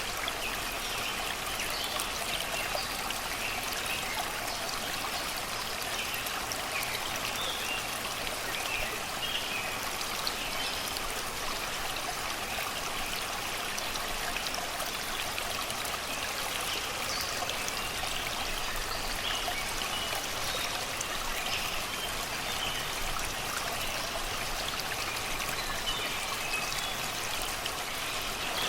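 Shallow river flowing over and around rocks and stones, a steady babbling rush of water, with birds singing faintly in the forest behind it in short scattered calls.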